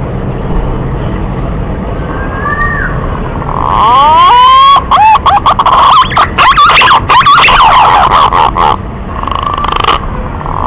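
Green pigeon (punai) song. After a few seconds of faint hiss, a loud phrase starts about four seconds in: rising whistled glides, then rapid warbling whistles, lasting about five seconds.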